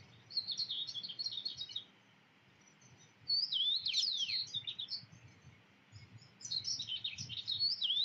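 Small birds chirping and whistling in short bursts: a run of quick chirps, then several falling whistles a few seconds in, then more chirps near the end.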